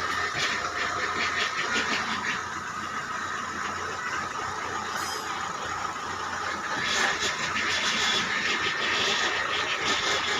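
Tata Indigo's engine running with a steady whining noise from the power steering system, the fault being shown.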